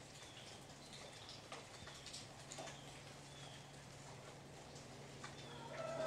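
Faint woodland sound: scattered light taps and a few short, high bird chirps over a low steady hum. Near the end a louder steady tone sets in and holds.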